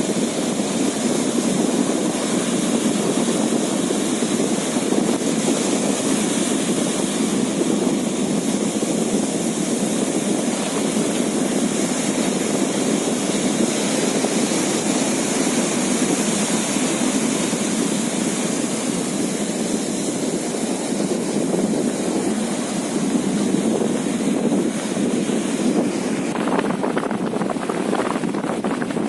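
Steady drone of a fishing boat under way at sea, its engine running with wind buffeting the microphone and the sound of the water, and a few brief rougher bursts near the end.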